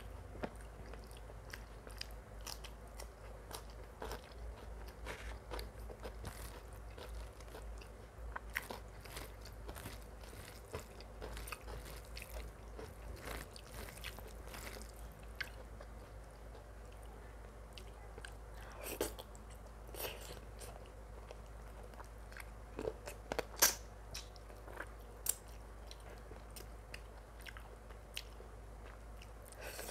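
A person chewing mutton curry and rice close to the microphone: a stream of small wet mouth clicks, thick in the first half and sparser later, with a few louder clicks in the second half.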